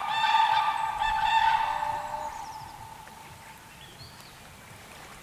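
Loud bird calls with a steady pitch, running on and then fading out about two seconds in; faint short high chirps from other birds follow.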